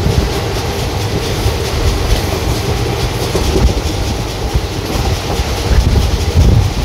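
Passenger train running, heard from on board the coach: a steady rumble with the wheels clicking over rail joints.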